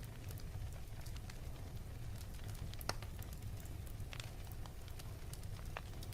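Wood fire burning in a fireplace: a steady low rumble with scattered sharp crackles and pops, the loudest pop about three seconds in.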